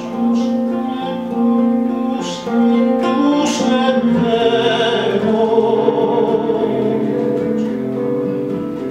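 A song performed live on acoustic guitar with voice: plucked and strummed guitar chords under held notes, and from about four seconds in a louder, wavering sung line.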